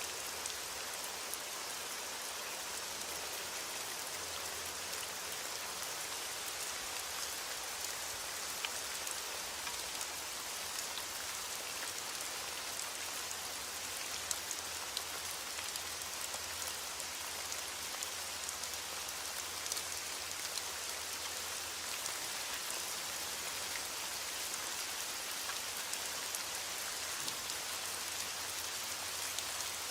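Steady heavy rain falling, an even hiss with scattered sharper drop ticks. No thunder.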